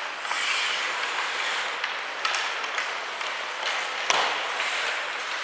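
Ice hockey game sounds in an arena: a steady hiss of skates on the ice and crowd noise, with several sharp clacks of sticks and puck, the loudest about four seconds in.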